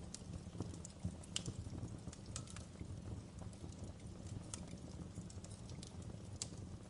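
Wood fire in a fireplace crackling: irregular sharp pops and snaps, a few louder ones about a second and a half in, over a low steady rumble of the flames.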